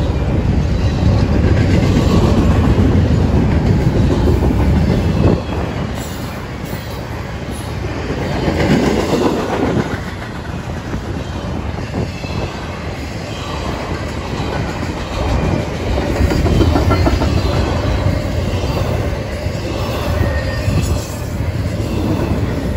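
Double-stack intermodal freight train passing at close range: steel wheels rumbling on the rails with occasional clacks, the level rising and falling as the cars go by.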